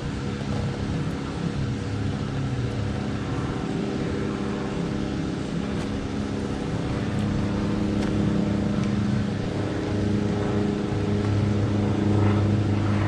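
A motor engine running steadily at an even pitch, getting louder toward the end.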